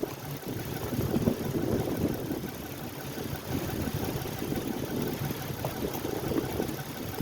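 A motor vehicle engine running with an uneven low rumble.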